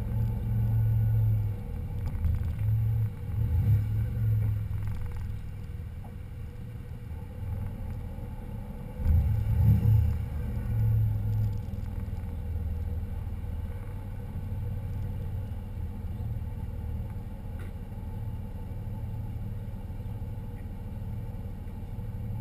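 Car engine running with a low, steady rumble. It swells louder twice, about three seconds in and again around nine to ten seconds, then settles into an even drone.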